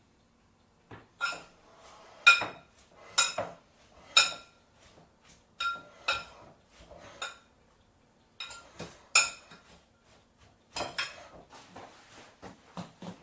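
Dishes and cutlery clinking in a kitchen: about a dozen sharp, irregular clinks, each ringing briefly, starting about a second in.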